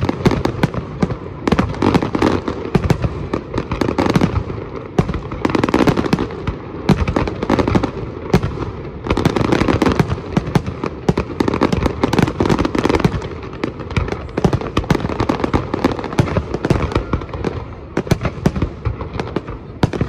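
Fireworks display: aerial shells bursting one over another in a dense, unbroken barrage of sharp bangs and crackle.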